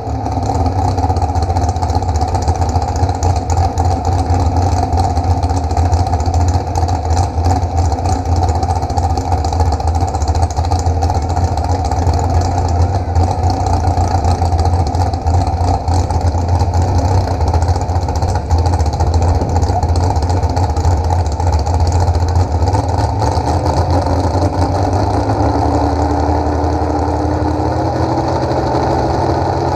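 An engine running steadily with a deep hum, and a tone rising in pitch over the last few seconds.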